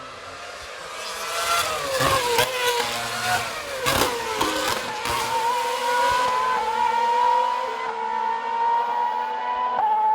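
Racing car engines passing at speed, their pitch falling as they go by, loudest about two to four seconds in. After that an engine note holds steady and climbs slowly in pitch.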